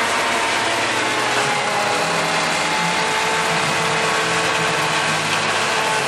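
Massey Ferguson 275 tractor's diesel engine running steadily at an even pitch.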